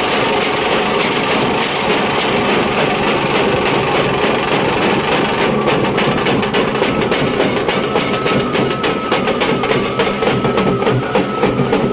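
Nashik dhol drumming: large barrel drums beaten with sticks in a fast, continuous, loud rhythm, a dense rattle of strokes.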